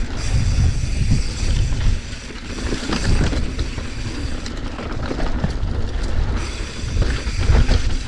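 Mountain bike being ridden along a dirt trail: tyres rumbling over the ground, with wind buffeting the microphone and scattered knocks and rattles from the bike.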